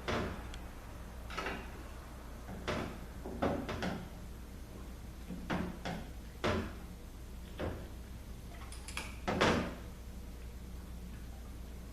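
Short knocks and clinks of a ZF6HP26 automatic transmission valve body and its separator plate being handled and set down on a workbench, about a dozen separate sounds with the loudest about nine and a half seconds in, over a steady low hum.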